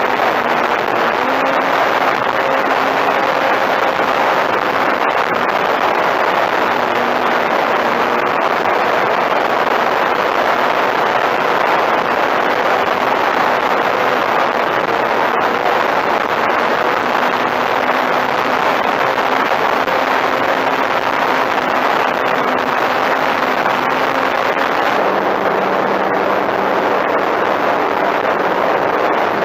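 Steady rush of airflow and wind over the onboard camera microphone of a Sebart Katana 30E electric RC plane in flight, with a faint motor and propeller hum underneath that shifts in pitch now and then.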